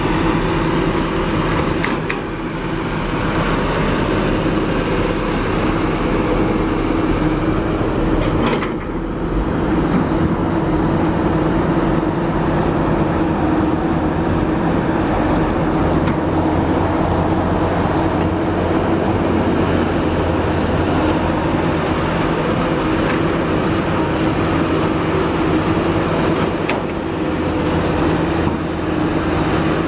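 Kobelco SK350 hydraulic excavator working: its diesel engine runs steadily at working revs, dipping briefly a few times as it goes.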